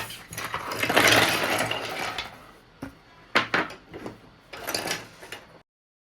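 A small motor-driven mechanism whirring in bursts: one long run of about two seconds, then several short ones, before the sound cuts off suddenly.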